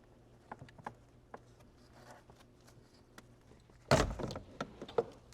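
Small plastic clicks and taps as the cabin air filter cover behind the glove box is unclipped, then a louder scraping knock about four seconds in as the stuck old filter is worked out of its housing.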